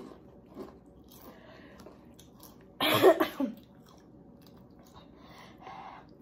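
Quiet chewing of chips, with one short, loud cough about three seconds in.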